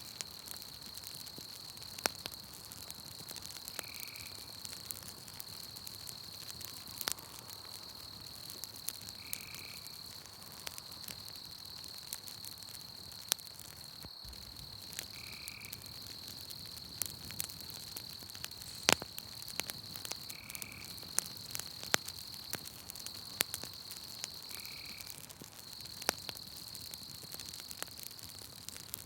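Campfire crackling with irregular sharp pops, over a steady high insect trill and a short call repeated about every four to six seconds.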